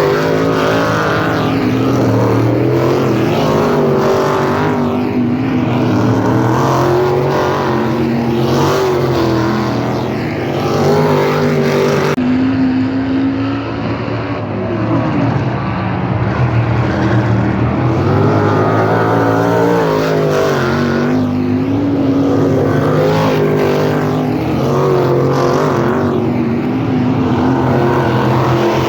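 Several 410 sprint cars' V8 engines running laps on a dirt oval, their pitches rising and falling as they power through the turns and pass, overlapping one another. The sound changes abruptly about twelve seconds in.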